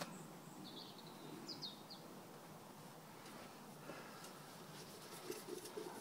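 A small bird chirping a few short, high notes in the first two seconds, over faint outdoor background noise.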